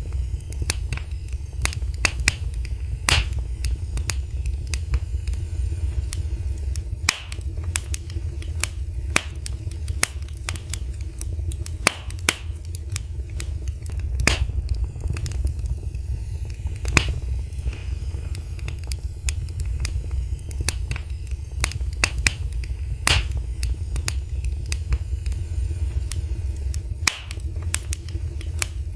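Wood fire in a fireplace crackling: frequent sharp pops and snaps at irregular intervals over a steady low rumble of the flames.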